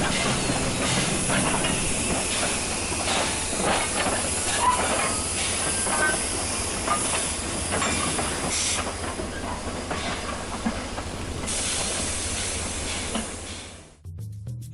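Steam railway soundscape: a steady hiss of steam from a locomotive with scattered knocks and clanks of wagons, fading out near the end.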